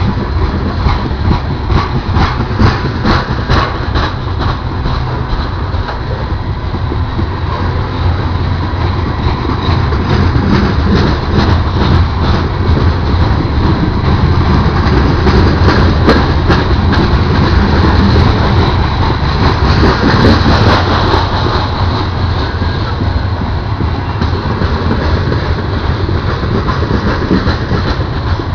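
Union Pacific freight train rolling slowly past: a steady low rumble of the cars, with wheels clicking over the rail joints and a ticking sound. It grows louder from about ten seconds in until about twenty seconds in.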